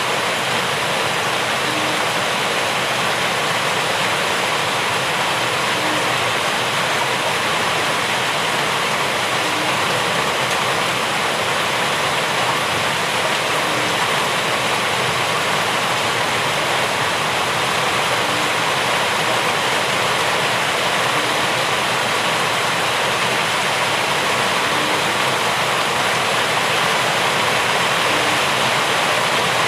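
Steady, unbroken rainfall: an even hiss of rain that keeps the same level throughout.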